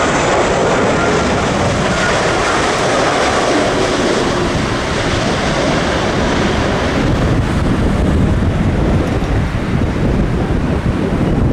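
Jet airliner's engines on a landing approach, strongest in the first few seconds and then fading. Through this, strong gusty wind buffets the microphone, and the low rumble of the wind grows heavier in the second half.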